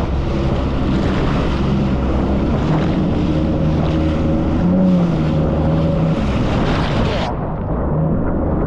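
Jet ski engine running steadily at speed under a loud rush of wind on the microphone. About seven seconds in, the wind hiss cuts out suddenly and the engine goes on.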